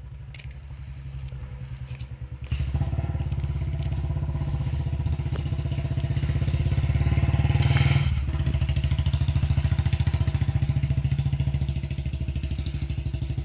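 Vehicle engine running steadily under load with a fine, even pulsing. It steps up louder about two and a half seconds in and is loudest around eight seconds. It cuts in and out abruptly.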